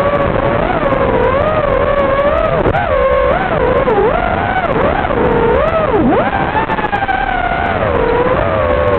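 FPV racing quadcopter's electric motors and propellers whining, the pitch constantly rising and falling as the throttle changes, with sharp dips around three and four and six seconds in.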